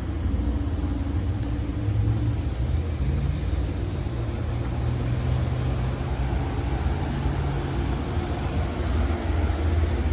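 Amtrak Southwest Chief passenger train, its Superliner cars rolling past with a steady low rumble and hum.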